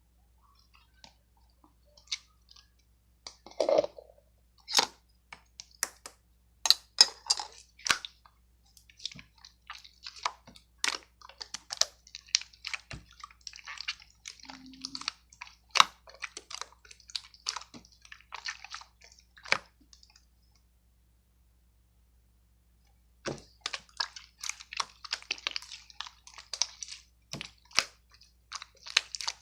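Close, irregular crackling and clicking sounds, with a break of about three seconds about two-thirds of the way through.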